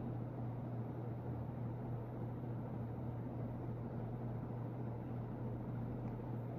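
American Industries 52-inch ceiling fan running on high speed: a steady low motor hum under an even rush of air from the blades. It runs smoothly with no bearing noise.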